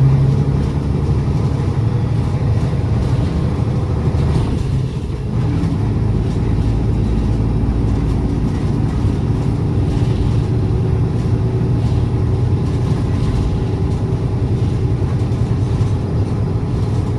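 City bus engine running steadily under way, heard from inside the passenger cabin as a low droning hum. About four to five seconds in the engine note dips and changes briefly, then settles back into the drone.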